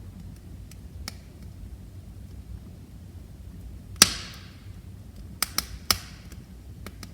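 Wood fire in a fireplace crackling over a low steady rumble. One loud sharp pop about four seconds in trails off in a short hiss, then three quicker pops follow, with faint ticks between.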